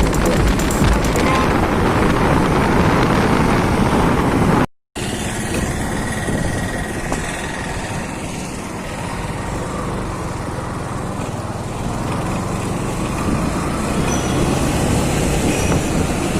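Motorcycle running on the road while riding, a steady engine and road noise, cut off for a split second just under five seconds in.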